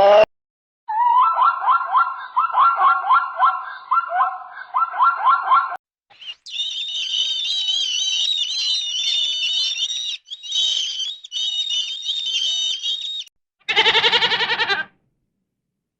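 A string of separate animal calls: a fast run of repeated calls, then a long high warbling trill like birdsong, and near the end a short wavering bleat.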